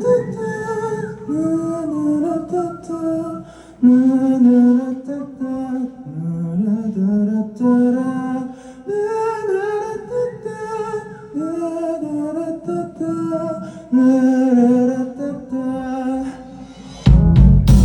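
Live band playing a song intro: a slow, gliding wordless melody of held notes over a soft low drone. Near the end the full band comes in loudly with bass and drums.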